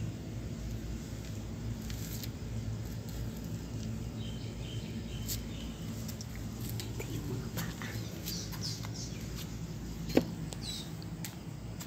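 Scattered high bird chirps over a steady low background rumble, with one sharp knock about ten seconds in, the loudest sound.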